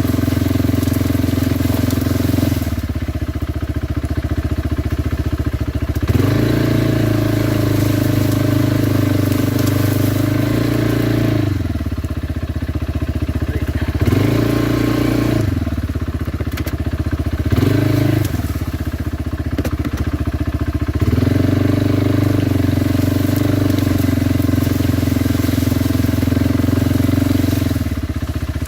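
Kawasaki Brute Force 300 ATV's single-cylinder engine under way, the throttle opened and let off several times. It pulls steadily at higher revs for a few seconds at a time, gives two short blips in the middle, and drops back to a lower note near the end.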